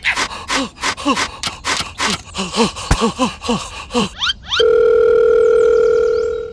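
Rapid squeaky cartoon-style chattering, several short chirps a second for about four seconds, then a few quick rising whistle sweeps and a steady electronic beep tone held for about two seconds before it cuts off.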